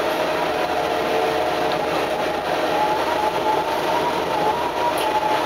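Adelaide Metro 3100-class diesel railcar heard from inside as it runs along the track: a steady running noise with a whine that rises slightly about halfway through.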